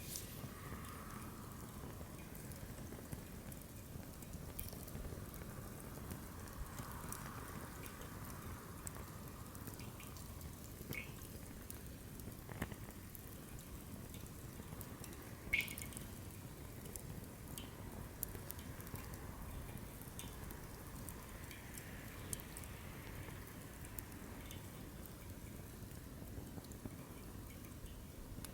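Newly lit wood campfire in a fire stand burning, with a steady low rush of flame and irregular crackles and pops from the wood, the sharpest pop about halfway through.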